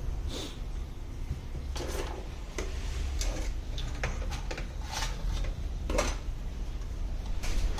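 Scattered light clicks and knocks of small hard objects being handled and set down, over a steady low hum, with the louder knocks about two, five and six seconds in.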